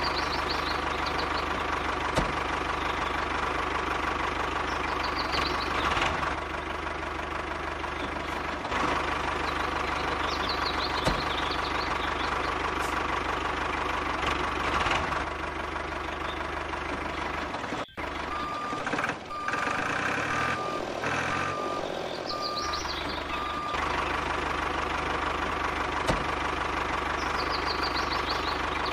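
A small engine or motor running steadily with a regular knocking beat. About two-thirds of the way through, it briefly cuts out, and then a short series of evenly spaced beeps sounds.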